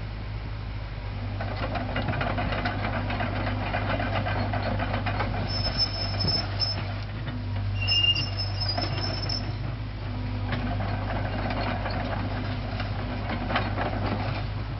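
Caterpillar 307B excavator's diesel engine running steadily, with two stretches of louder working noise about a second and ten seconds in, and brief high whistling tones near the middle.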